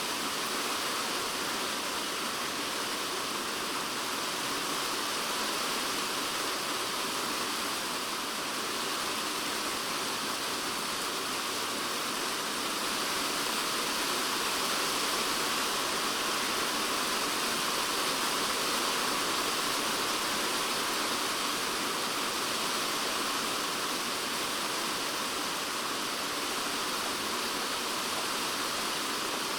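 Typhoon rain falling on a polycarbonate shed roof, heard from inside the shed: a dense, even hiss of drops with no breaks, swelling slightly about halfway through.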